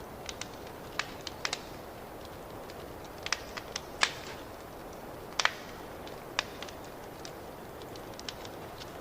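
Fireplace fire crackling: irregular sharp pops over a steady soft rush. The loudest pops come about four and five and a half seconds in.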